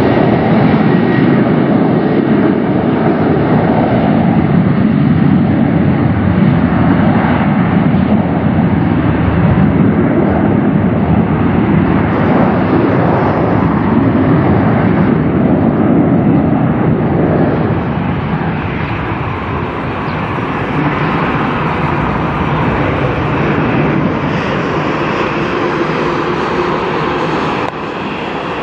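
Jet airliner engines at takeoff power, a loud steady roar that eases off somewhat in the second half as the aircraft moves away.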